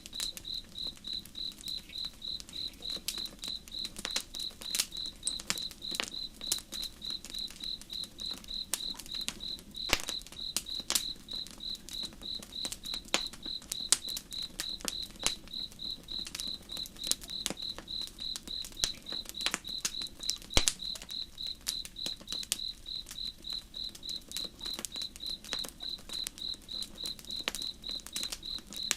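Campfire crackling with irregular sharp pops, under a cricket's high chirp repeating at an even pace, with a low steady rush of flowing river water beneath.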